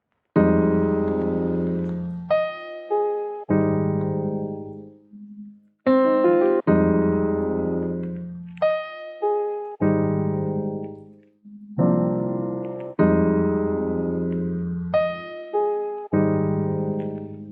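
Slow solo piano background music: sustained chords struck one after another, each ringing and fading away before the next.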